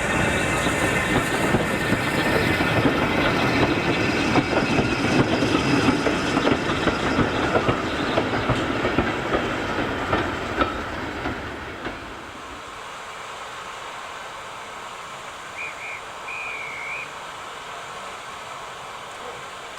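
Train passing at close range, its wheels clattering rhythmically over the rail joints, then fading away about twelve seconds in.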